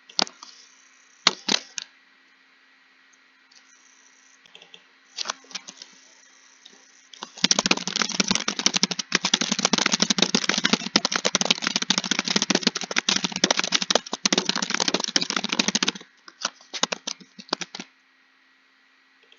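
Computer keyboard typing: a few scattered keystrokes, then a fast unbroken run of typing for about eight seconds, ending in a few last keystrokes.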